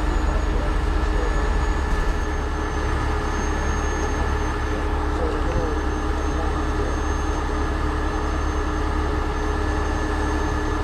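Heavy-duty tow truck's diesel engine running at a steady speed, with a steady thin high whine above it; the level eases slightly about two seconds in.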